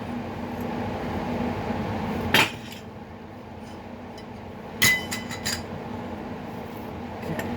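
Metal tools and parts being handled and set down: two sharp metallic clanks, the second ringing briefly, followed by a few light clinks, over a steady hum.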